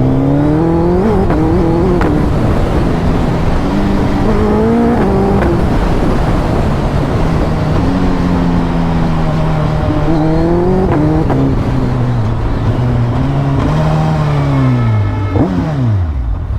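Suzuki Hayabusa Gen 3's inline-four engine pulling up through the gears with wind rush, its pitch climbing and dropping back at each shift. It holds a steady cruise, picks up once more, then winds down steeply near the end as the bike slows.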